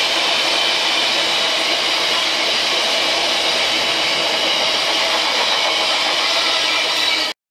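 Freight train's open box wagons rolling past at speed: a steady rush of steel wheels on rail with a faint ringing undertone. It cuts off suddenly near the end.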